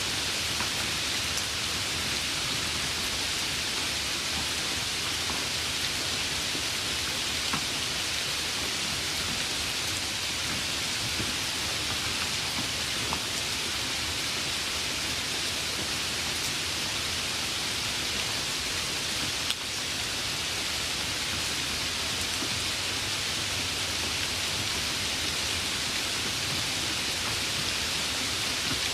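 Steady, even rain with a few scattered louder drop ticks.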